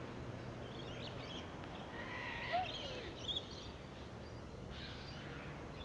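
Outdoor background noise with scattered short bird calls, the loudest a little past two seconds in.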